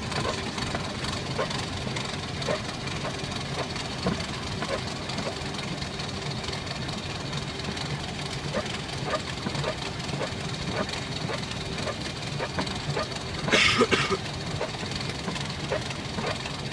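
Steady cockpit noise of a Boeing 737-500 taxiing, a constant hum with a faint high tone running through it and scattered light ticks. A short louder hiss comes about fourteen seconds in.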